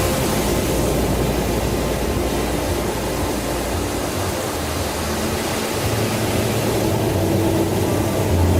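Steady rushing noise with a low droning hum underneath, unbroken throughout; the hum grows stronger near the end.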